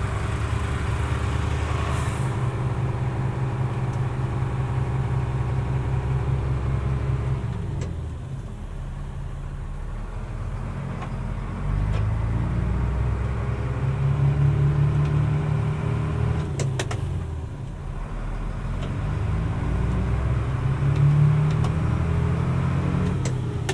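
Mercedes-Benz Unimog U500's turbo-diesel inline-six running under load at low speed, twice easing off and then building revs again. A few short sharp clicks or hisses cut in over the engine.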